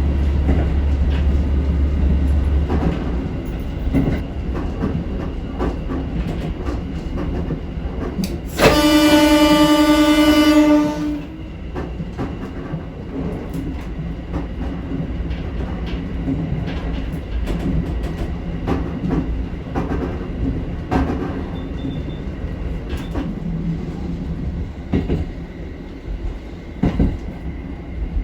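Donan Isaribi Railway KiHa 40 diesel railcar running, its engine drone deep at first and easing after about three seconds, with wheel clicks over the rail joints. About nine seconds in, the train's horn sounds once and is held for about two seconds.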